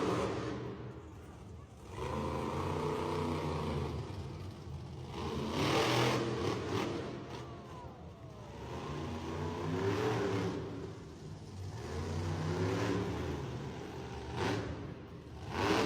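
Monster truck engines revving in repeated surges of a few seconds each, with louder flares about six seconds in and near the end.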